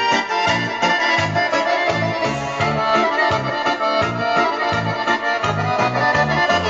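Music with a rhythmic bass line playing through the loudspeaker of a Tesla 59UKT valve radio, working again after repair.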